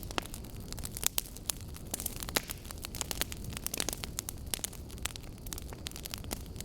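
Wood fire burning, with logs crackling and popping in frequent irregular sharp snaps over a low steady rumble of the flames.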